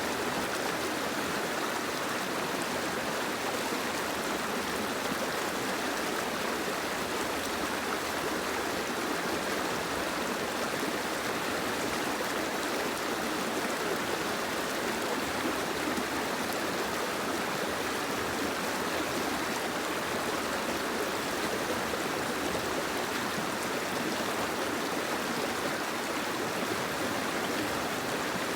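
Steady, even rushing of water with no breaks or distinct events.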